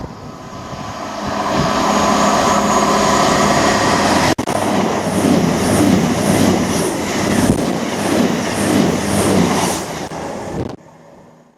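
A train passing at speed, its wheels clattering rhythmically over the rail joints about twice a second before the sound cuts off abruptly near the end.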